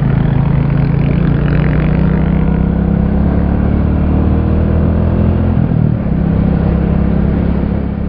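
Royal Enfield Classic 350's single-cylinder engine running steadily while the motorcycle is ridden. The engine note eases down a little through the middle, with a brief dip about six seconds in.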